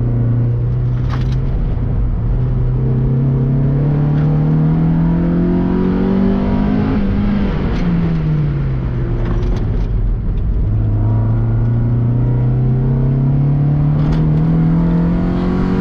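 Mazda MX-5's four-cylinder engine driven hard: the revs climb steadily for several seconds, fall back around the middle, then climb again near the end.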